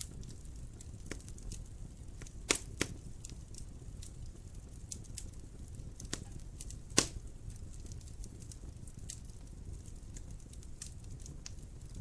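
Wood fire burning in a fireplace: a steady low rumble of flame with scattered crackles and a few sharper pops, the loudest about two and a half, three and seven seconds in.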